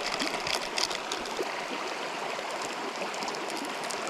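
River water running steadily, with a few light clicks in the first second.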